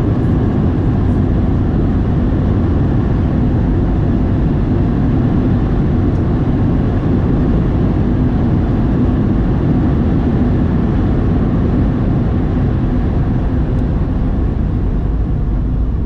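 Boeing 737-700 cabin noise heard from a window seat: a steady rumble of engines and airflow as the jet rolls on the ground after landing.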